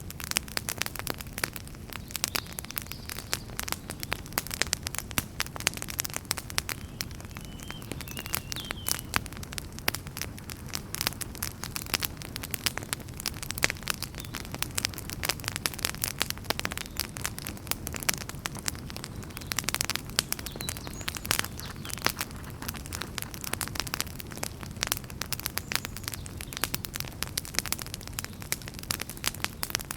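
Wood fire burning in a fireplace, crackling with many irregular sharp pops over a steady low rush of flame. A brief faint whistle comes about eight seconds in.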